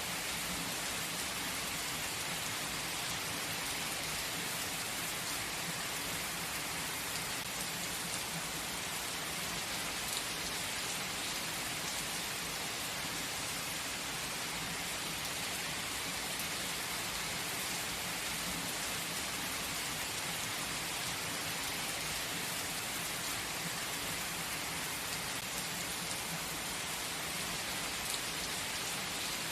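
Gentle rain falling steadily: an even hiss, with faint separate drop ticks here and there.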